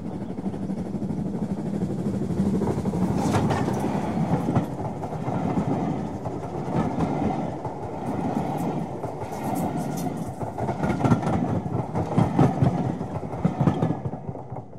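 A train running along the track, its wheels clicking over the rail joints in an uneven clatter over a steady rumble.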